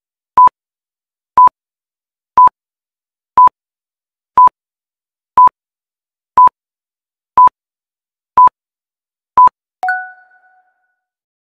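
Countdown timer sound effect: ten short, identical electronic beeps, one a second, ticking off a ten-second answer time. Right after the tenth beep a two-tone ringing chime sounds and fades within a second, signalling that time is up.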